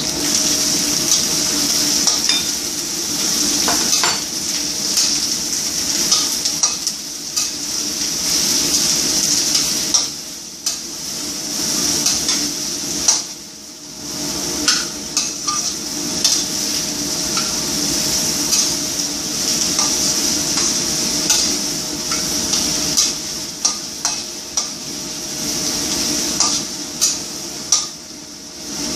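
Pieces of pumpkin sizzling in hot oil with garlic and onion as they are stir-fried in a pan. A utensil stirs them, with frequent clicks and scrapes against the pan, and the sizzle dips briefly twice.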